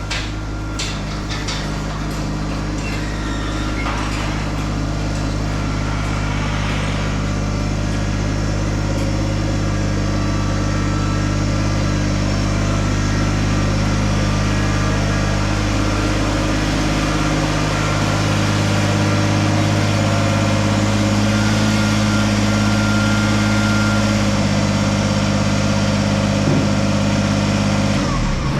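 Tractor engine running steadily at a constant speed, its level slowly growing over the half-minute.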